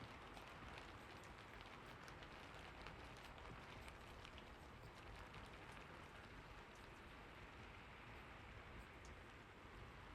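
Faint, steady rain: an even hiss with many small, scattered drop ticks.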